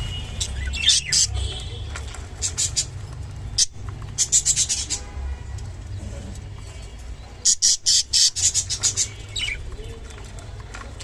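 Clearwing budgerigar at a calcium and mineral block, making clusters of short, scratchy high-pitched bursts: about a second in, around four to five seconds in, and a longer run from seven to nine seconds in. A low steady hum runs underneath.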